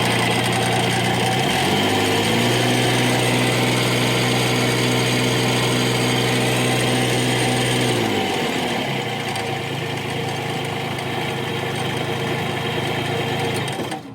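Bobcat MT100 mini track loader's engine running with its muffler freshly bolted back on: it idles, revs up about two seconds in, holds the higher speed until about eight seconds in, then settles back to idle. It runs smoothly, which the owner takes to mean the muffler is secure.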